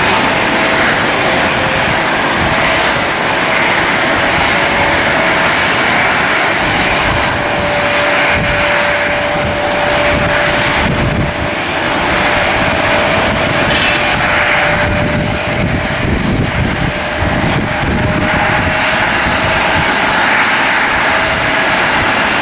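Airliner engines running steadily, with a constant whine held over a broad, dense roar.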